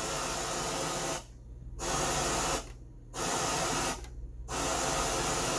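Static hiss from the unit's audio output, coming in four bursts of about a second each with short gaps between.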